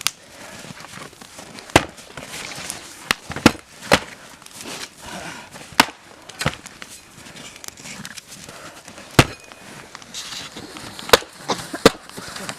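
Sparring blows from swords and axes striking wooden shields: about a dozen sharp knocks at irregular intervals, some landing in quick pairs and triples, with the hardest hits around the middle and near the end.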